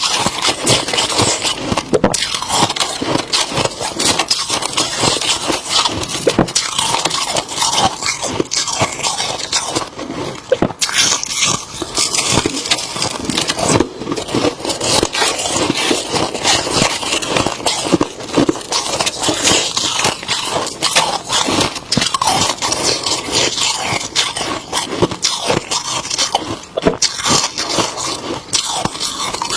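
Freezer frost being scraped and crunched up close: a dense, continuous run of crisp crackling crunches.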